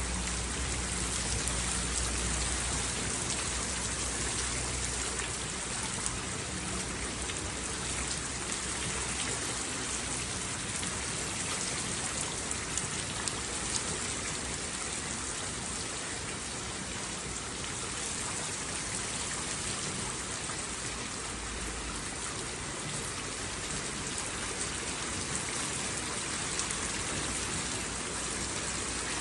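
Steady rain falling, a dense even hiss with scattered ticks of single drops. A low rumble sounds under it at the start and fades out within the first few seconds.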